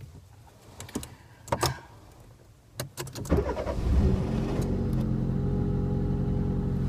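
A few clicks and knocks, then a car engine starts a little over three seconds in and settles into a steady idle.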